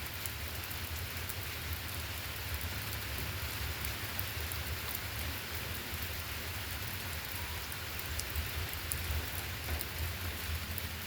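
Steady rain falling on the roof of a shelter, a constant hiss dotted with many small drop ticks.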